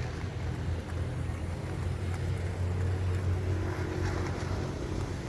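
Wind buffeting the microphone in a steady low rumble. The battery-powered RC eagle model's electric motor hums faintly behind it, a little stronger near the end.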